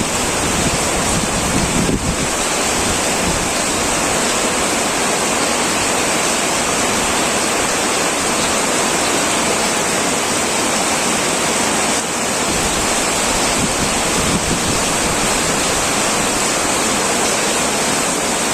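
Heavy rain drumming steadily on a tin metal roof, a dense, even hiss. A deeper low rumble underneath drops away about two seconds in.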